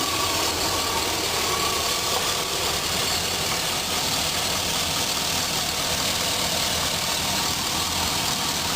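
The truck's 6.0-litre Vortec V8 idling steadily, heard from the open engine bay.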